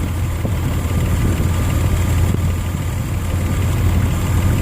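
Nissan Xterra's 3.3-litre V6 idling steadily with a low hum, everything switched off, its ignition timing freshly set to 10 degrees before top dead center.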